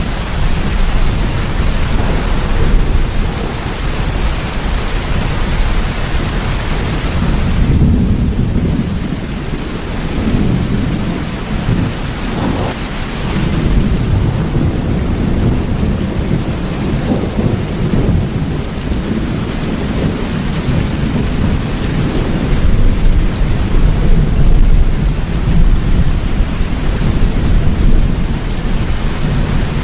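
Steady rain with low, rolling thunder rumbling under it, swelling about eight seconds in and again near the end.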